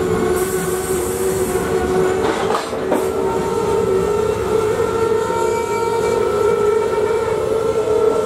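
Freight train of covered hopper wagons rolling past, wheels rumbling on the rails, with a steady whining squeal held throughout and a few sharp knocks about two to three seconds in.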